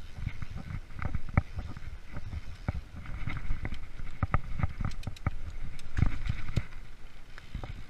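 Freeride mountain bike rolling over a bumpy forest trail: a low rumble from the tyres with irregular knocks and rattles as the bike hits bumps.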